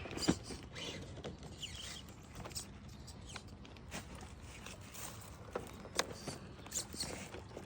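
Small RC rock crawler truck creeping over a log, its tyres and chassis giving scattered clicks and crackles on bark and dry debris over a faint low hum.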